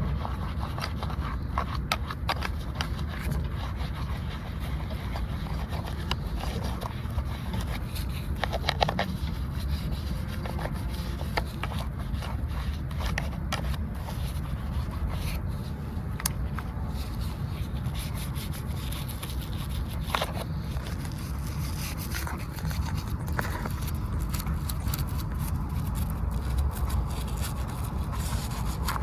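Small scrubbing and scraping sounds on a miniature toy car as dried mud is cleaned off, made up of many short scratches and clicks over a steady low rumble.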